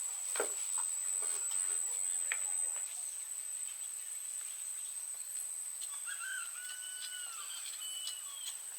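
Outdoor ambience: a steady high insect-like whine, a few sharp knocks in the first three seconds, and short whistled bird calls from about six seconds in.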